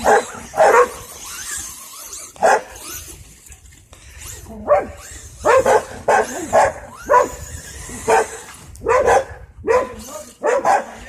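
A dog barking repeatedly in short, loud barks, about fifteen of them, coming faster in the second half, with a few bent into yelps.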